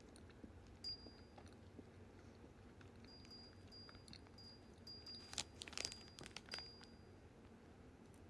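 Quiet room with a run of short, thin, high chime-like tones repeating about twice a second, mixed with faint clicks and light tapping that peak about five to six and a half seconds in.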